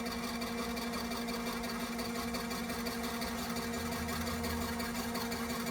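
Small electric motor of a folding mini washing machine running with a steady hum.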